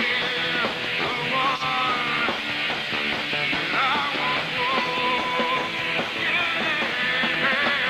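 Rock band playing at a steady, loud level: a full band with electric guitar and drums, and a lead line that bends up and down in pitch over the rhythm.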